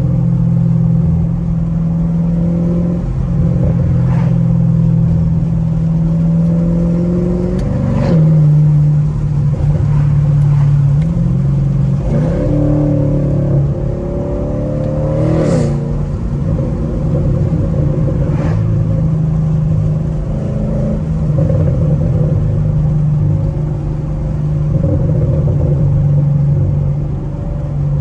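Straight-piped Camaro SS V8 exhaust droning steadily while driving, its pitch stepping down about a third of the way in and rising and falling briefly around the middle as the revs change.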